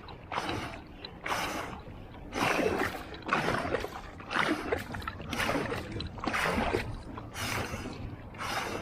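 Paddle strokes from a one-person outrigger canoe: the blade catching and leaving the water in a steady rhythm of about one splashing stroke a second.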